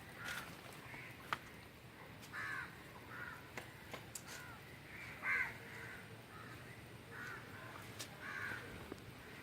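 Birds calling outdoors: about a dozen short calls repeated every second or so, with a few sharp clicks among them.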